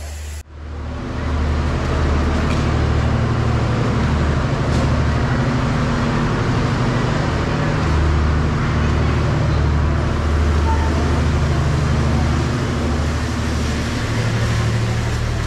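Passenger train noise from a carriage window: a steady rumbling noise over a low hum that swells and fades every few seconds. It starts abruptly about half a second in.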